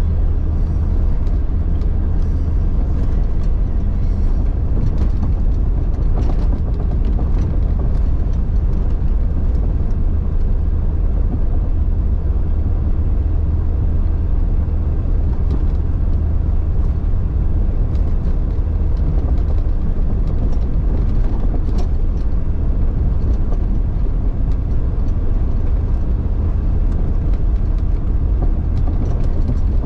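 1999 Jeep Cherokee XJ driving off-road, its engine running steadily with a low, even drone.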